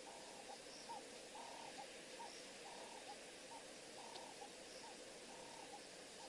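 A bird calling over and over, faint over a steady hiss: a phrase of short notes and a longer held note that repeats about every 1.3 seconds.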